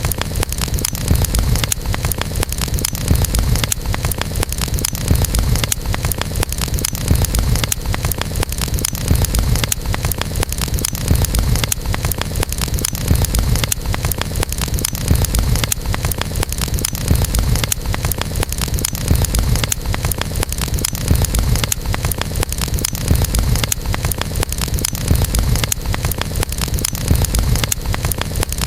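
Wood campfire burning: dense, fast crackling and popping over a steady low rumble.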